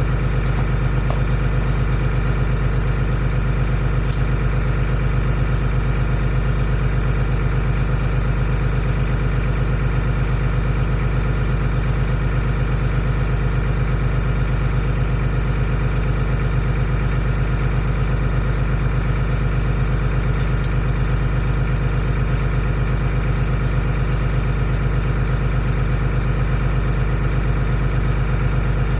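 Diesel engine idling steadily in the cold, an even, unchanging rumble with two faint clicks.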